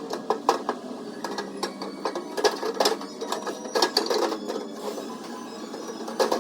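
Irregular taps of a body hammer on the sheet-metal door panel of a Ford Ranger, about two to three sharp knocks a second, as dents are knocked out.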